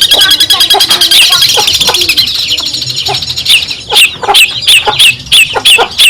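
Long-tailed shrike (cendet) singing: a fast, chattering run of high notes, then from about three and a half seconds in a quick series of loud, sharp calls.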